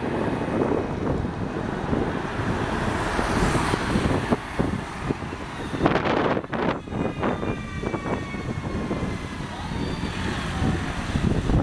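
Road traffic with a motor vehicle running past under steady wind-like rumble. About six seconds in come a few knocks, followed by a slowly falling whine.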